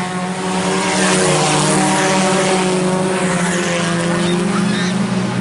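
A pack of IMCA Sport Compact race cars running at speed, with several four-cylinder engines at steady, high revs layered together over tyre and track noise.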